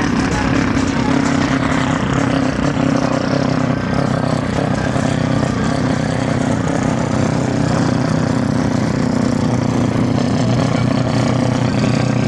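Endurance race car engines running at a steady pitch, one continuous drone with no rise or fall.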